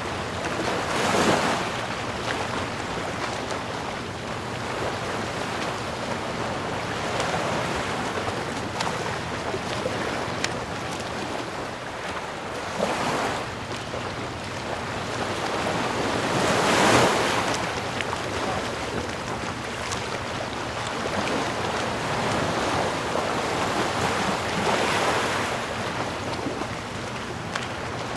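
Ocean surf: a steady wash of waves, with louder breakers swelling and falling back about four times, the strongest about two thirds of the way through.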